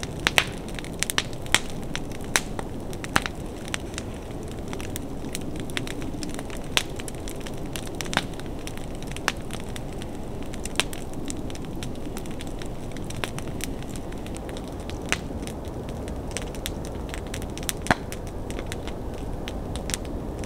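Wood fire burning, crackling with irregular sharp pops, a few of them loud, scattered over a steady low noise.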